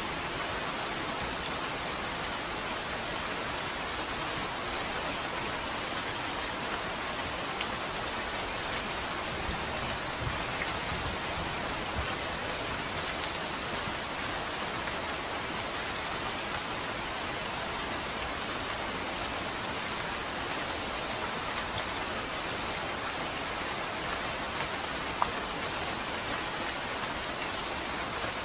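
Steady rain falling, an even hiss of drops on a surface with a few distinct drip ticks and one sharper tick near the end.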